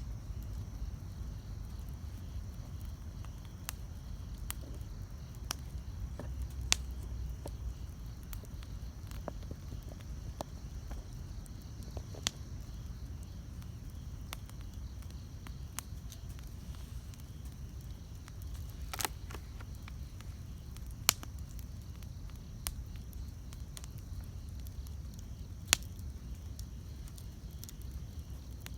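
Wood campfire burning with a low steady rumble, broken by sparse sharp crackles and pops from the burning wood, a few of them much louder than the rest.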